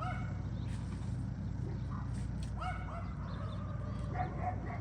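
A dog barking a few short barks at intervals, over a steady low hum.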